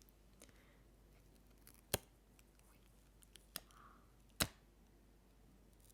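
Close-miked ASMR trigger sounds: two sharp clicks about two and a half seconds apart, with a fainter click between them, over quiet room tone.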